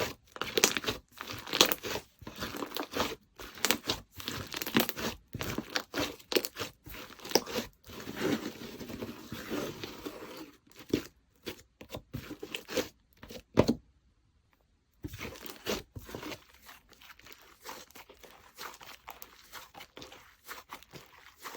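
Slime being squished, stretched and poked by hand, making a dense run of sticky clicks, pops and crackles. The sound drops out for about a second roughly two-thirds through.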